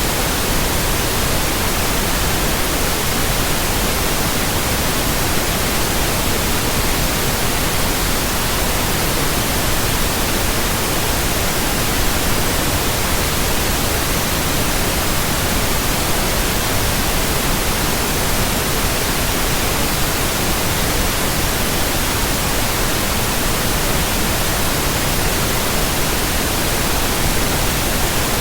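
Pure white noise: a steady, unchanging hiss spread evenly across the whole frequency range, with no rise, fall or break.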